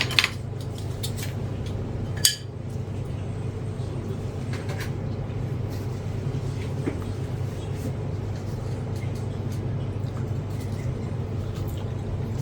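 Cutlery and dishes clinking against a plate of food: a couple of sharp clinks at the start and another a little after two seconds, then faint scattered taps. A steady low hum runs underneath.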